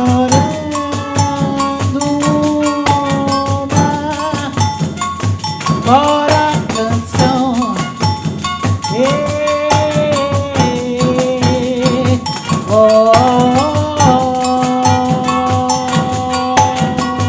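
Live music: an ensemble of pandeiros playing a fast, steady rhythm with bright jingles, under a melody of long held notes that slide between pitches.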